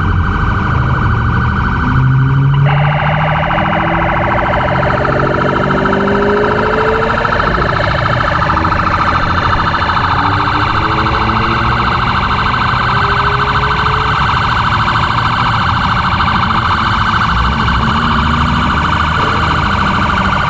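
Police car siren sounding continuously with a rapid electronic warble; its pattern switches about two and a half seconds in.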